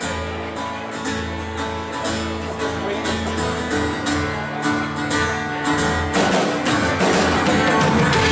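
Band music: strummed guitar over a steady held bass, starting suddenly and growing louder and fuller toward the end.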